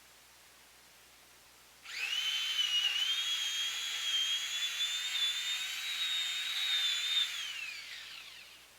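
Chainsaw running at high revs, a high-pitched steady whine that starts suddenly, then falls in pitch and fades out as the throttle is released.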